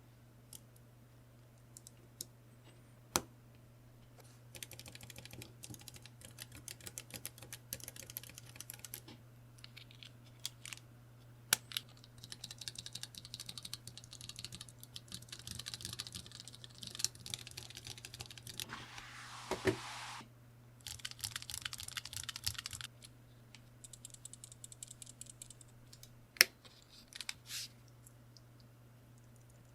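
Typing in bursts of rapid key clicks on a low-profile mechanical keyboard with Kailh Choc Red linear switches, with a few louder single clacks between bursts. A brief rushing noise comes about two-thirds of the way through, over a steady low hum.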